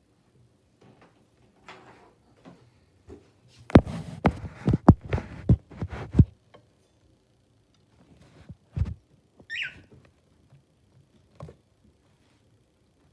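A cockatiel pecking at broccoli: scattered small taps, then a quick run of sharp knocks a few seconds in. About two-thirds of the way through, a single short chirp falls in pitch.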